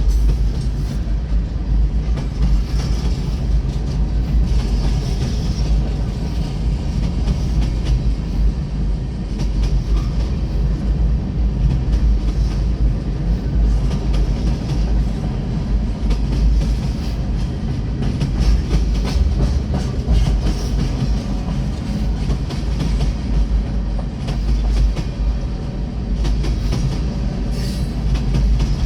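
Freight train passing close by: the cars rolling steadily over the rails with clickety-clack and rumble from the wheels.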